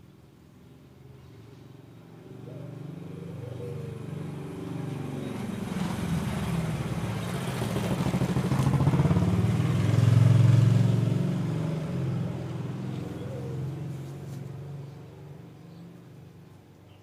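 A motor vehicle's engine passing by, building over several seconds to its loudest about ten seconds in, then fading away.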